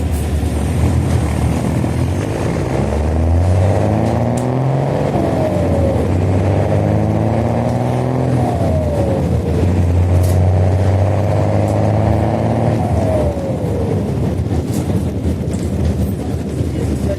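Rear-mounted diesel engine of a Mercedes-Benz OH-1420 city bus with a free-flowing exhaust, heard from inside, pulling away and accelerating through the gears. The engine note rises three times and drops at each gear change, then runs steadier near the end.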